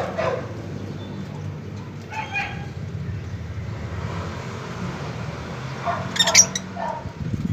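Pet birds giving short calls: one at the start, one about two seconds in, and a louder burst of several near the end. A steady low hum runs underneath.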